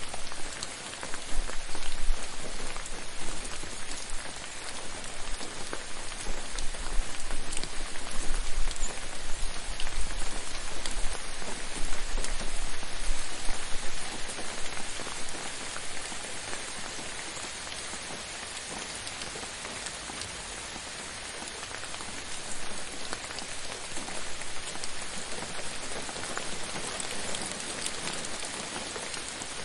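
Steady rain falling, a dense hiss of drops hitting a surface with many small patters. It is heavier with a low rumble in the first half, then eases to a softer, even fall.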